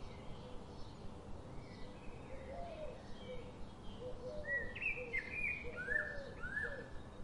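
Birds chirping and calling over a steady background hiss: many short, quick up-and-down chirps, growing louder and busier in the second half.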